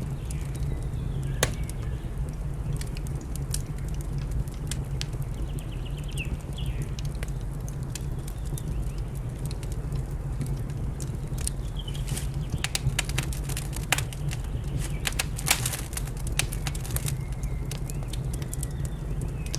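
Wood fire crackling, with sharp pops scattered throughout and a cluster of them late on, over a steady low rumble. Birds chirp faintly now and then.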